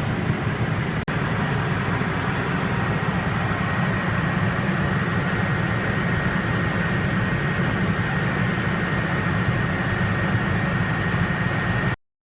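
Steady cockpit noise of an aircraft gliding with the throttle at idle: a low rumble of engine and airflow with a thin steady whine over it. It dips briefly about a second in and cuts off abruptly near the end.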